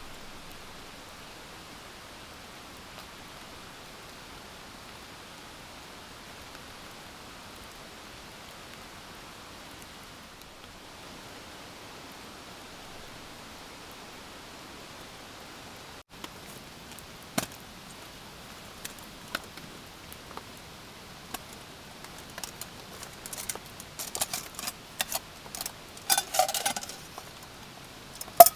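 Steady hiss of rain for about sixteen seconds. After a sudden break, camp gear is handled: scattered light clicks and knocks grow busier, with a short metallic ringing clink near the end.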